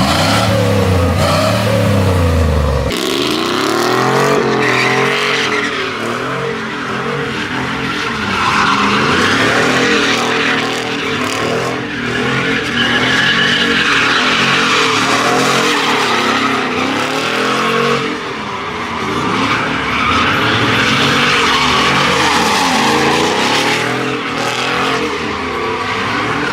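Truck engine revving up and down over and over during burnouts and donuts, with tires squealing and skidding on pavement. The sound changes abruptly about three seconds in.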